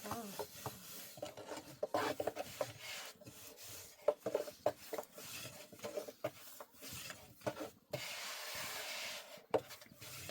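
Irregular rubbing and scraping with scattered light knocks, and a denser rasping stretch of about a second and a half near the end.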